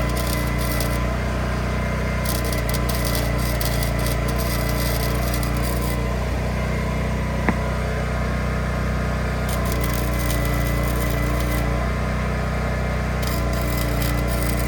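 Electric arc welding in four bursts of a few seconds each, the arc crackling and sizzling as exhaust hangers are welded back on, over a steady low hum. One sharp click falls about halfway through.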